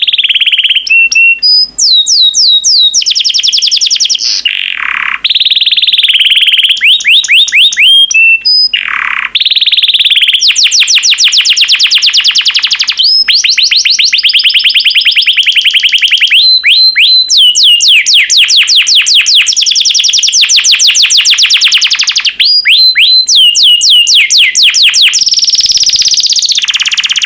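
Yellow canary singing: long rolling trills of fast repeated, falling notes, broken by brief pauses between phrases.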